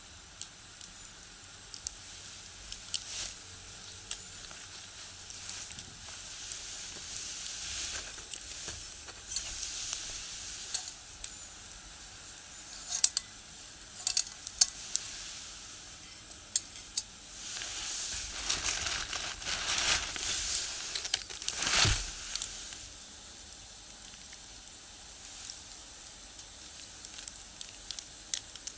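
Wood fire burning in a small box stove: a steady hiss of flames with frequent sharp crackles and pops from the firewood. The hiss swells a few times, and there is one loud pop about three quarters of the way through.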